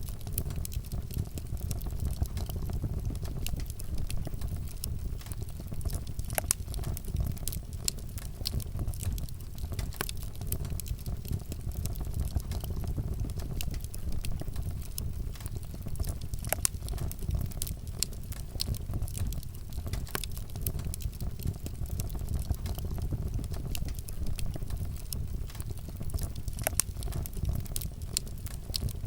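Wood fire burning: a steady low rumble with frequent sharp crackles and pops from the burning wood, a few of them louder than the rest.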